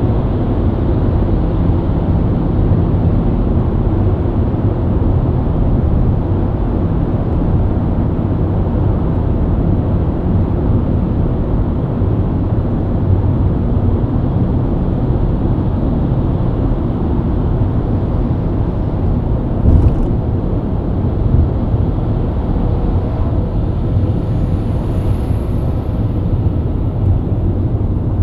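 BMW E90 323i's inline-six running at a steady highway cruise, mixed with steady tyre and road noise. A brief thump comes about two-thirds of the way through.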